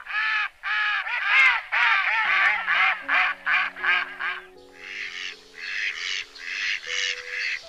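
A duck quacking in a quick run of loud quacks, about three or four a second, followed by a fainter run of calls from a little past halfway. Soft background music with long held notes comes in underneath about two seconds in.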